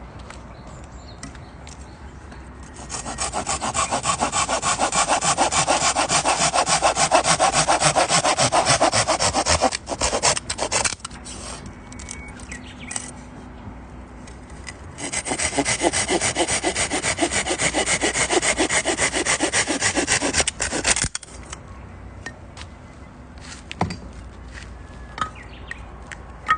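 Wood being cut with a hand saw: two long bouts of quick, even back-and-forth strokes, with a pause and a few light knocks between them.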